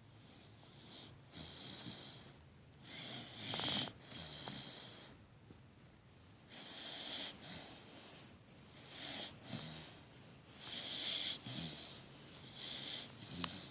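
Great Dane mix puppy snoring in deep sleep: a high, breathy snore about every two seconds, with a short click near the end.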